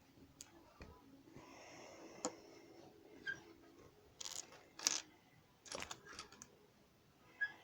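Lego pieces being handled: a soft plastic rustle about a second and a half in, then a run of sharp plastic clicks and taps, the loudest about five seconds in and another near the end.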